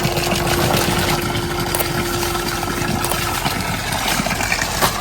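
Heavy rain falling and running off in a steady, loud rush. A single steady tone sounds over it and stops about three and a half seconds in.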